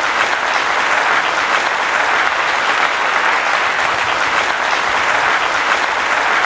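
Audience applauding steadily, a dense, even clapping after the song ends.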